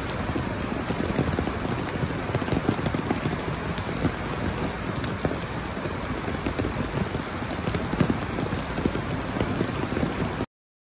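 Heavy rain pelting a flooded street, drops splashing into the standing water in a dense, steady patter. It cuts off suddenly near the end.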